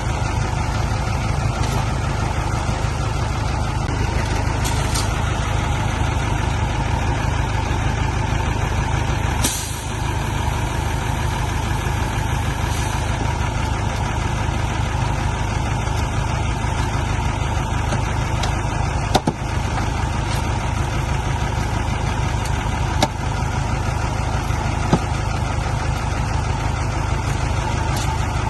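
Heavy diesel engine running steadily with a deep low rumble. A short burst of hiss comes about ten seconds in, and a few sharp clicks follow later.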